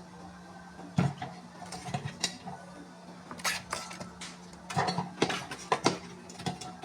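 Ears of corn knocking and clattering against the inside of a small metal pressure cooker as they are packed in one by one, about a dozen irregular knocks, the sharpest about a second in. A steady low hum runs underneath.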